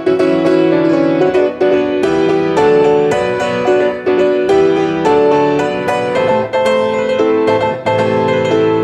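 Solo piano playing a fast passage of many evenly struck notes, with chords held beneath.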